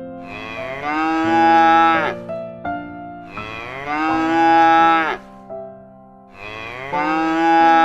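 Cow mooing three times, each moo about two seconds long, over soft background piano music.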